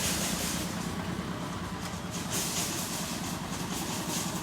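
Motor vehicle engine running steadily with a low hum while riding along, with gusts of wind noise rising and falling over it.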